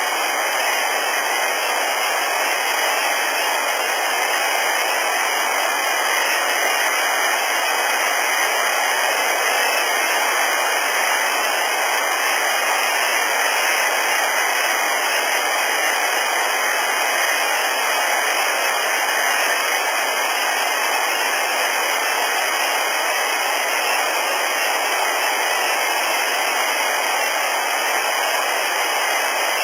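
Steady hiss from an amplified outdoor field recording, even and unchanging, with no distinct calls, knocks or other events standing out.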